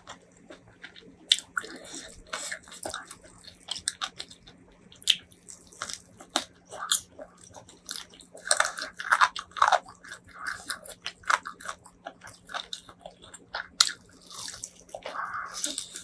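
Close-miked eating: repeated bites and chewing with crunching, in quick irregular clicks and wet smacks.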